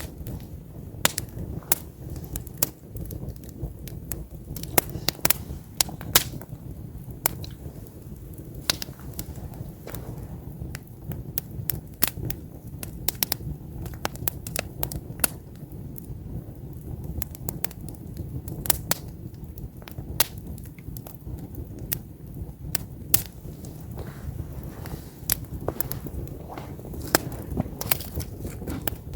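Wood campfire burning, with frequent irregular sharp pops and snaps over a steady low rush of flame.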